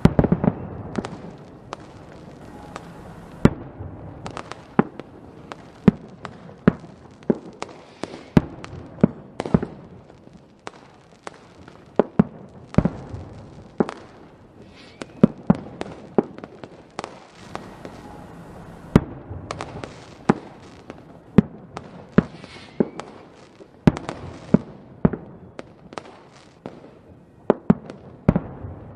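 Fireworks display: a run of sharp bangs, often one to three a second, over continuous crackling.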